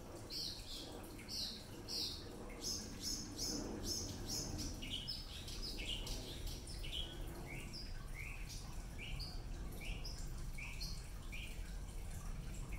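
A bird chirping over and over in short, falling notes about two a second, higher and quicker for a couple of seconds, then lower in pitch through the rest.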